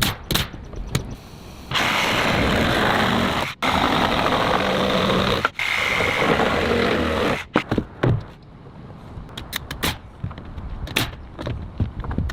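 A power tool runs loudly and steadily for about six seconds, cutting out twice for an instant, then stops. Scattered short knocks like hammering on wood follow in the second half.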